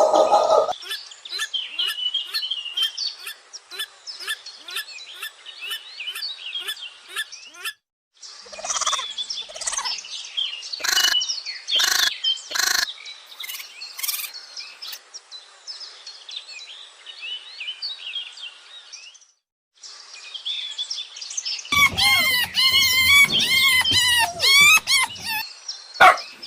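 Birds chirping and calling in three separate clips joined by abrupt cuts. The first has a fast run of ticks, the middle one several sharp loud notes, and the last a loud warbling call about 22 seconds in.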